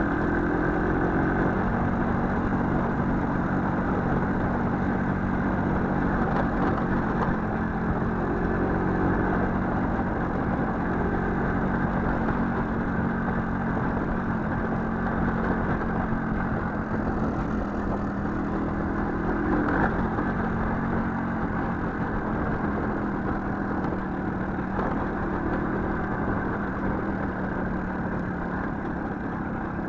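Small motorcycle engine running steadily, its pitch staying nearly level with slight shifts.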